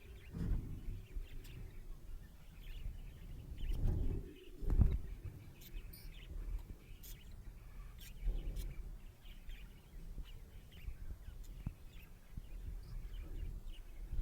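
Budgerigars chirping in short, scattered chirps over a low background rumble, with a couple of louder low thumps about four to five seconds in.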